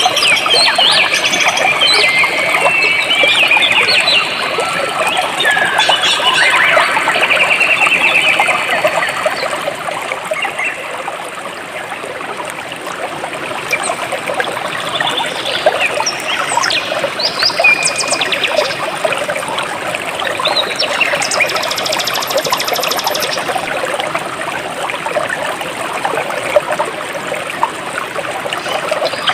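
Jungle stream water flowing steadily, with many birds chirping and calling over it, including a rapid trill about a quarter of the way in.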